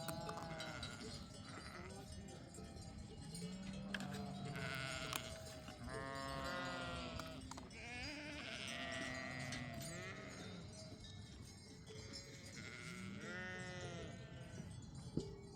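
A flock of sheep bleating, many wavering calls overlapping one after another.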